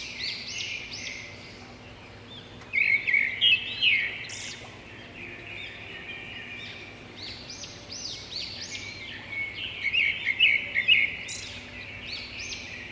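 Many small birds chirping together in a busy, overlapping chorus of short high chirps, loudest around three to four seconds in and again around ten to eleven seconds in.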